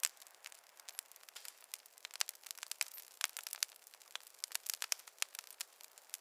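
Wood fire crackling: a dense run of irregular sharp pops and snaps over a faint hiss, with a loud pop right at the start.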